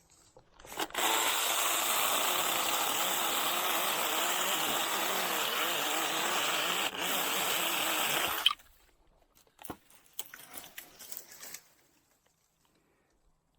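Small 6-inch cordless mini chainsaw running on a DeWalt battery, cutting through a Chinese tallow sapling; it runs steadily for about seven seconds and stops abruptly. A few faint clicks and rustles follow.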